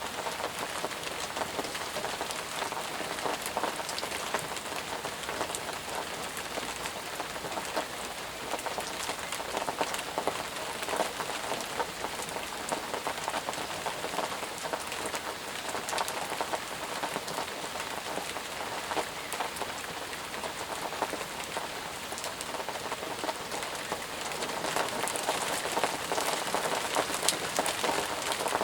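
Steady rain falling, many individual drops pattering on surfaces, slightly heavier in the last few seconds.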